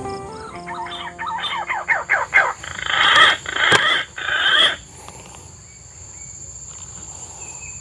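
Outdoor animal sounds: a loud run of rapid sweeping calls or strokes that quickens and then stops about five seconds in, over a steady high insect trill.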